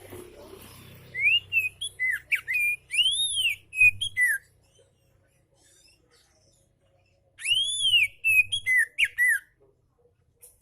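Oriental magpie-robin singing: two phrases of clear, whistled notes that arch up and down and slide, the first starting about a second in and the second a few seconds later after a short pause.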